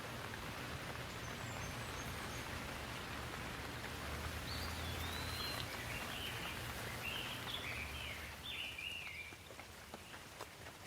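Steady rain falling, with a low rumble underneath. From about four seconds in, a bird sings a run of quick warbling, chirping phrases for several seconds.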